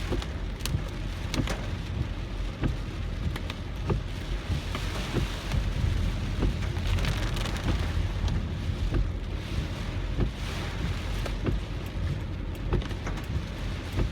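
Heavy typhoon rain striking a moving car, with many irregular sharp drop impacts over a steady low rumble of the car and road.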